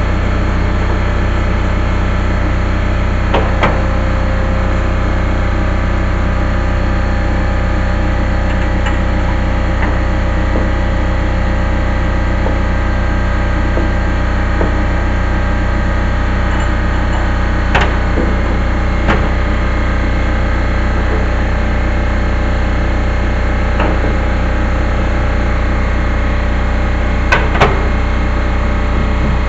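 A steady mechanical hum runs throughout, with a few sharp knocks on top: one about three seconds in, two more near the middle, and a loudest pair close together near the end.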